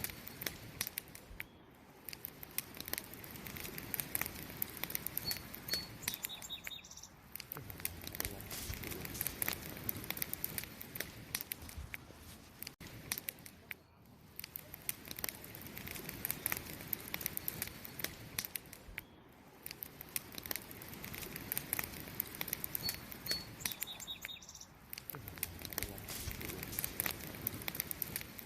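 Wood fire crackling and popping steadily, dense little snaps over a soft hiss that swell and ease every several seconds. A brief faint high chirp sounds about five seconds in and again near 23 seconds.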